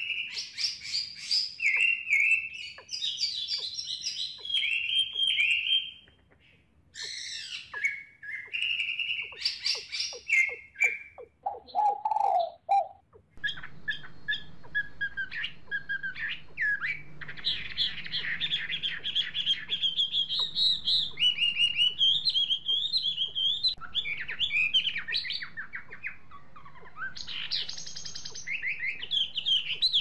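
Birds chirping and calling in quick runs of high notes, with brief pauses. The background hiss rises abruptly about halfway through, as at an edit.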